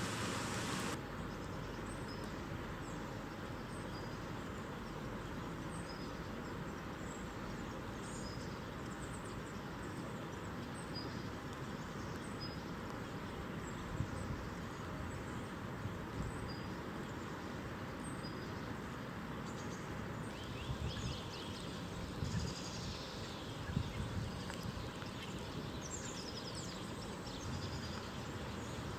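Small songbirds giving short high calls about once a second over a steady outdoor hiss, with fuller bursts of song in the last third and a few soft knocks.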